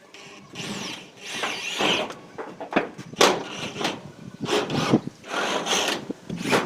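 Irregular scraping, rubbing and knocking of metal roofing sheets being worked and fitted, with a few short high squeals about a second in.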